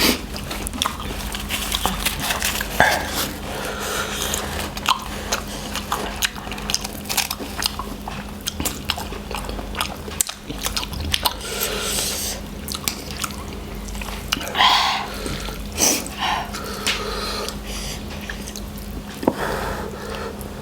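People chewing noodles close to the microphone, with irregular wet mouth clicks and smacks, over a steady low hum.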